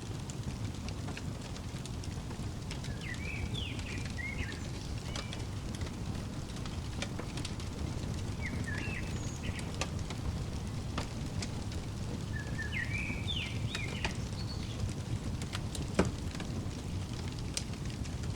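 Wood fire crackling over a steady low rush, with scattered small pops and one sharp pop near the end. A songbird sings a short chirping phrase three times, several seconds apart.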